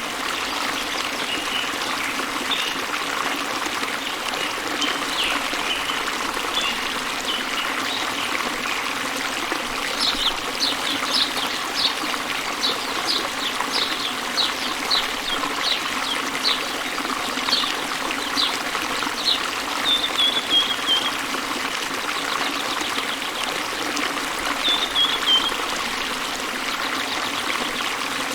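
Steady rush of falling water from a waterfall, with small birds chirping over it. About ten seconds in comes a run of quick repeated chirps, followed by two short falling trills.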